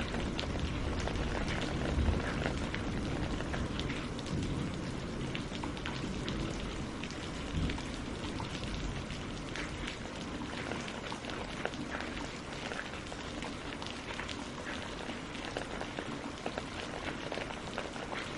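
Steady rain falling on a lake's surface and on tree leaves: a dense patter of individual drops over a continuous hiss, with a few dull low thumps in the first half.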